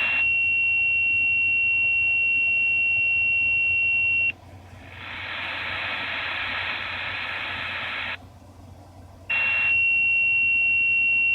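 A steady high-pitched tone heard through a radio receiver on lower sideband, an unexplained odd signal. It holds for about four seconds and cuts off, about three seconds of static hiss follow, and the tone comes back steady about nine seconds in.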